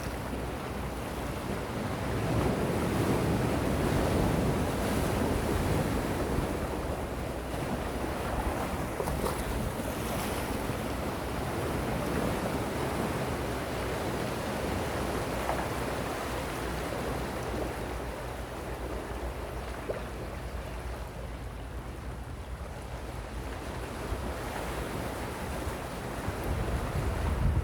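Gentle sea waves washing in, a steady surf hiss that swells a few seconds in and slowly eases off, with wind rumbling on the microphone.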